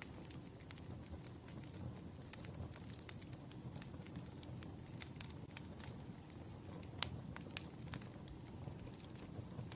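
Wood fire burning, with a steady low rumble and irregular crackles and pops from the firewood, a sharper pop about 7 seconds in.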